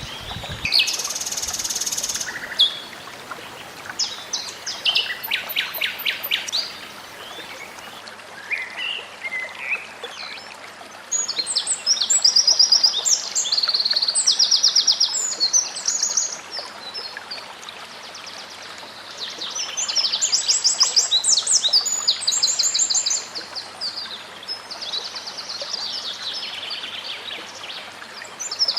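A songbird singing in phrases of fast trills and rapidly repeated high notes, with short pauses between phrases, over a steady rush of flowing water.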